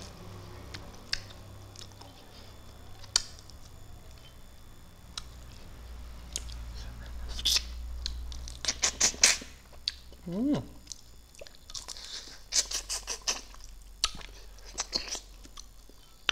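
Close-miked eating sounds of a man eating fish with his fingers: wet chewing and sharp lip smacks, coming in quick runs about halfway through and again a few seconds later. A short rising hum from him about two-thirds of the way through.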